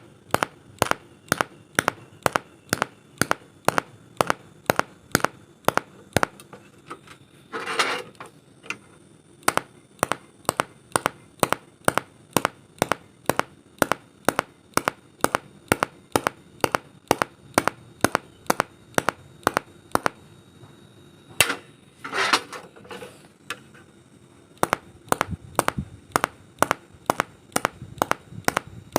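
TIG welding arc clicking sharply and evenly at about two pulses a second, as from a slow pulse setting. The clicks pause twice, each time with a short hissing crackle.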